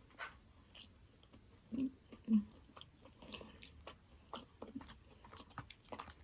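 Quiet, close-up chewing and biting: wet mouth clicks and smacks of someone eating, with a couple of slightly louder bites or mouth sounds about two seconds in.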